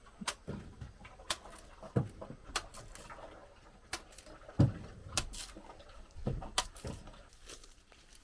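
Sugarcane stalks cracking and snapping in a run of irregular sharp knocks, a few with a heavier thud.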